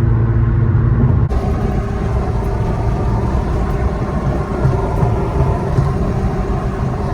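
Car engine running with a steady low drone; about a second in, the sound changes abruptly to a noisier, rumbling engine-and-road sound that carries on.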